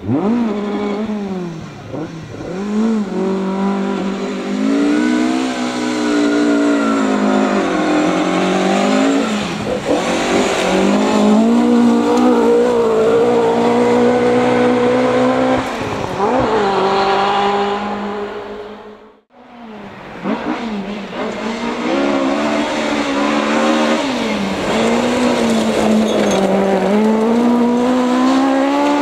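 Rally car engines at full throttle, revs climbing and dropping repeatedly through gear changes. The sound cuts out abruptly about two-thirds of the way in, then more rally car engine revving follows.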